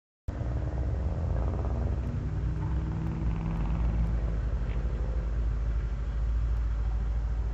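1969 Chevelle's stroked 350 small-block V8 running steadily at idle, a deep low rumble through 40 series Flowmaster exhaust, starting abruptly just after the beginning.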